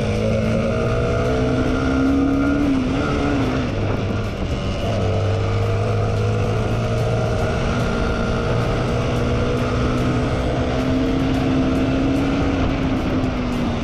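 Motorcycle engine running hard, its pitch rising and falling gently as the rider speeds up and eases off, under steady rushing noise.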